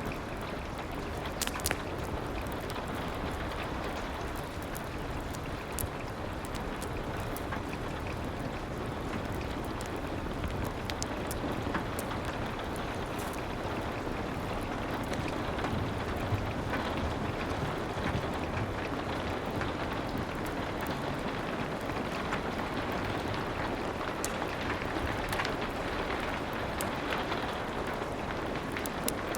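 Steady rain, with wood fire crackles popping here and there.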